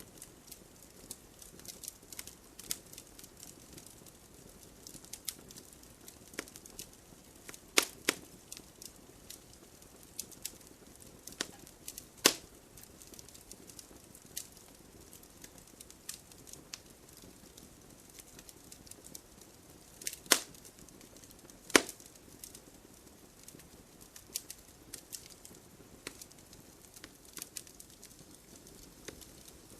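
Wood fire crackling in a fireplace, with a steady run of small pops and a few louder snaps about eight, twelve, twenty and twenty-two seconds in.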